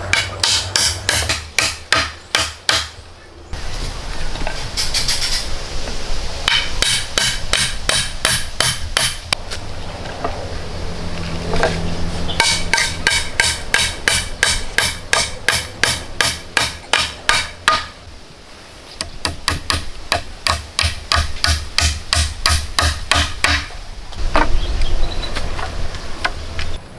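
Hammering: quick repeated hammer blows, about four or five a second, in four runs separated by short pauses.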